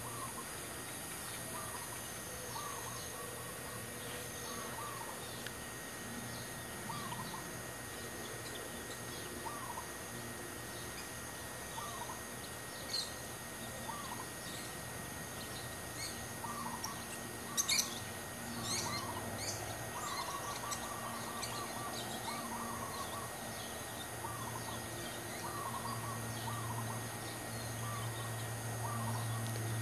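Birds calling outdoors: short calls repeated every second or two, with a brief run of sharp, high chirps a little past the middle. A low hum grows louder near the end.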